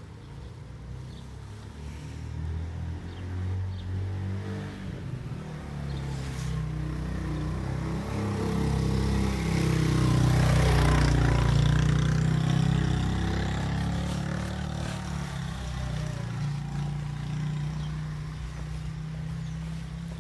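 A motor vehicle's engine passing by. It grows louder over about ten seconds, is loudest about halfway through, then slowly fades away.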